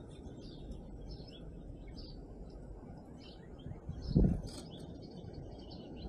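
Small songbirds chirping with many short, high calls. A brief low rumble sounds about four seconds in.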